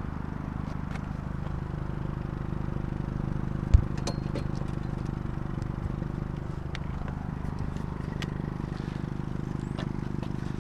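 Bicycles being shifted and secured by hand: scattered metal clicks and rattles, with one hard thump about four seconds in, over a steady low hum.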